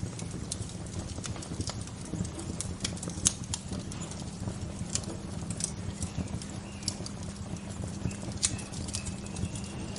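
Bonfire crackling: burning wood gives off irregular sharp pops and snaps over a steady low rush. A faint, drawn-out high bird note comes in near the end.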